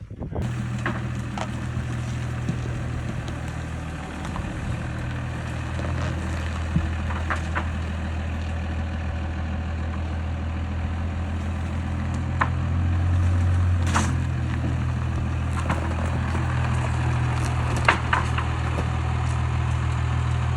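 A vehicle engine idling steadily, with scattered knocks and clanks every few seconds.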